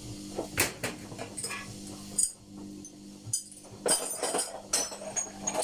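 A series of light metallic clinks and knocks at uneven intervals, as tools and small parts are picked up and set down during work on a washing machine tub.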